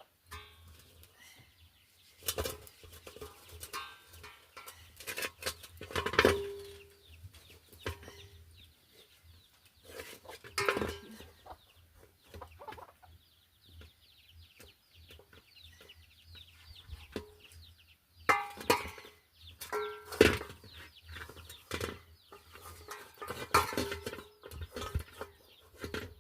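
Chickens clucking, with scattered knocks and handling noises every few seconds.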